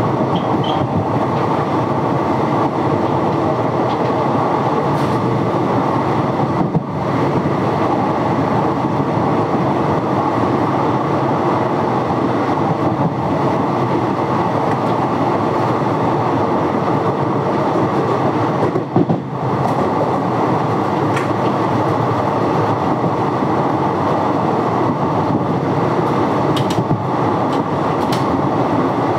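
Steady running noise of an express train's passenger coach at speed: wheels on the rails and rushing air, heard from the open coach doorway. The level dips briefly twice.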